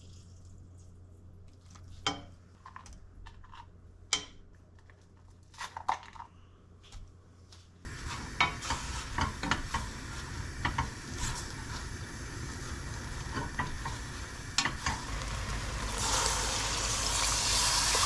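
A few light clicks and knocks of utensils, then about eight seconds in food starts sizzling in a hot frying pan and is stirred with a utensil, the sizzle getting louder near the end.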